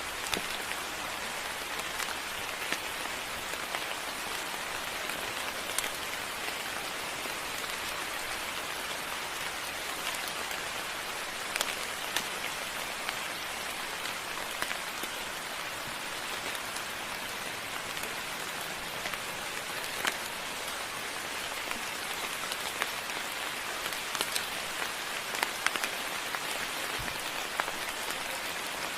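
Moderate rain falling steadily, with individual drops ticking sharply now and then over the even hiss.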